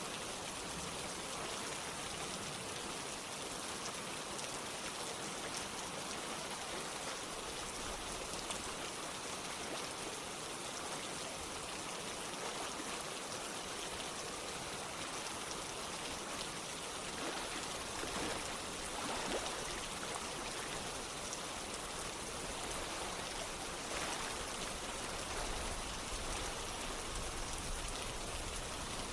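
Steady rain mixed with running water, an even hiss with a few louder drops or splashes about two-thirds of the way through.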